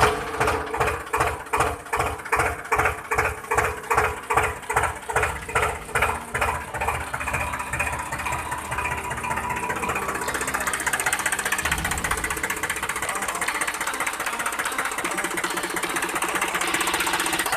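Small engine chugging in slow, even beats, about three a second, then picking up to a faster, steady running sound from about eight seconds in.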